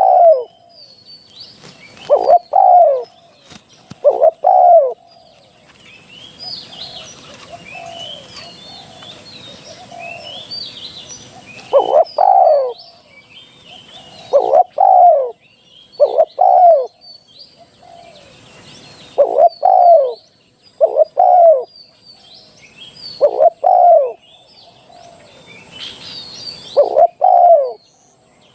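Spotted dove cooing in short, loud phrases of two or three notes, repeated every few seconds with longer gaps between, over faint chirping of small birds.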